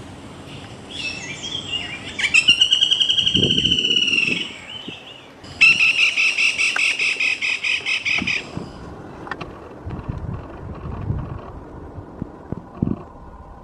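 Black-rumped flameback woodpecker giving its rattling call twice: a rapid, evenly pulsed string of high notes about two seconds in, lasting about two seconds, then a longer one of about three seconds starting near the middle.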